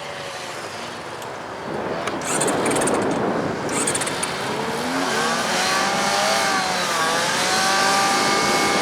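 Honda CB-1 motorcycle's four-cylinder engine being ridden hard through a cone course, its pitch rising and falling over and over with the throttle. It gets louder about two seconds in.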